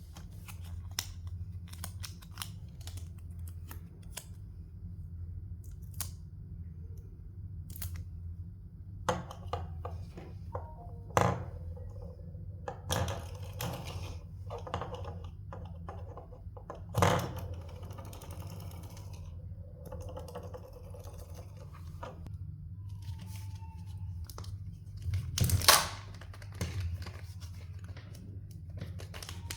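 Kinder Joy surprise eggs being handled and unwrapped: scattered plastic clicks and knocks with bouts of tearing and crinkling wrappers, over a steady low hum.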